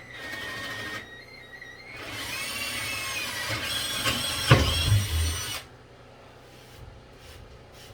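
Power drill boring a hole in wood with an Irwin bit: a short run, a brief pause, then a longer run of about three and a half seconds with the motor whine rising in pitch. There is a sharp knock about four and a half seconds in, and the drill stops suddenly shortly after.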